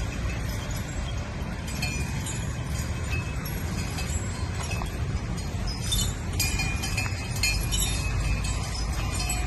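Light metallic clinking and jingling over a steady low background rumble, busier in the second half.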